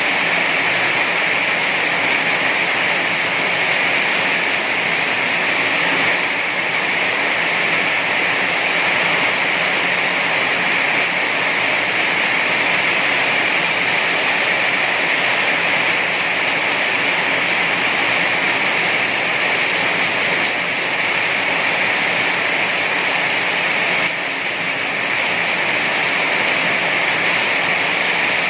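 Heavy rain falling in a steady, dense hiss with no thunder or breaks.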